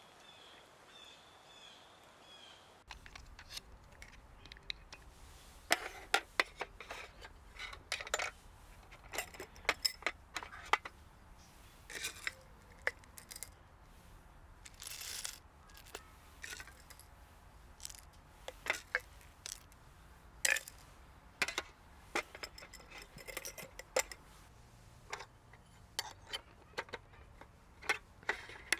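Faint repeated bird chirps for the first few seconds, then small hard objects clinking, tapping and knocking at irregular intervals as gear is handled, over a low steady background hum.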